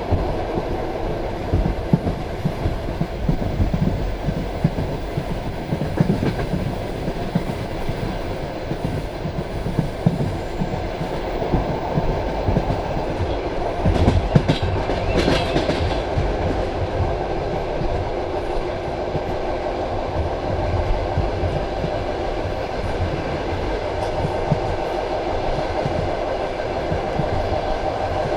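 Passenger train carriage running along the line: wheels clattering over rail joints under a steady rumble, with a louder burst of rattling clatter about halfway through.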